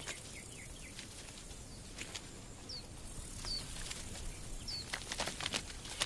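Outdoor ambience with a bird giving a few short, high chirps that drop in pitch, and some sharp clicks about two seconds in and a cluster of them a little after five seconds in.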